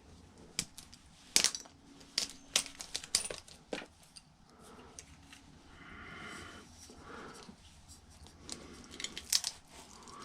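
Hand-disassembly of electronics: a string of sharp clicks and clacks of tools and fingers on hard plastic and metal as a glued deflection yoke is pried at on a picture tube, with softer scraping and rustling in the middle.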